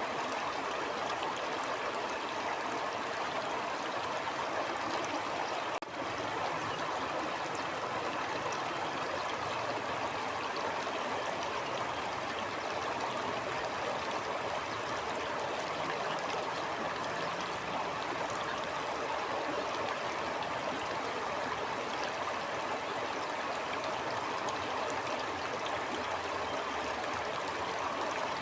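Flowing stream water, a steady, even rush with a brief dip in level about six seconds in.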